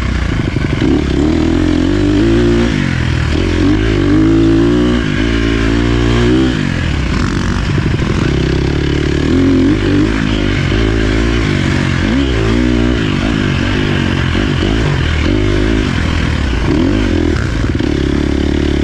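Dirt bike engine running under load, its pitch rising and falling again and again as the throttle is opened and shut on the trail.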